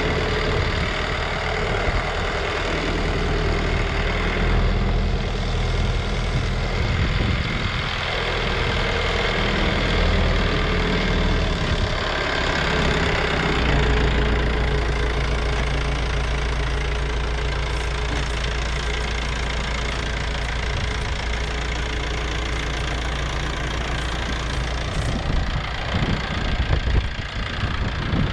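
Tractor engine running steadily; its low hum shifts in pitch and strength about halfway through.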